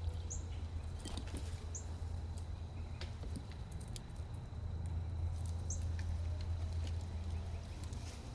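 Scattered small taps and clicks of squirrels feeding, with three brief high bird chirps, over a steady low hum.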